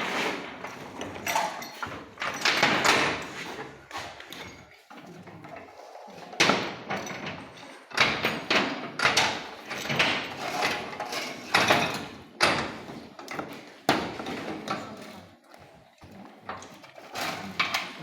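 Pipe-threading die cutting threads on a metal pipe: irregular scraping, grating strokes, each about half a second to a second long, with short pauses between them.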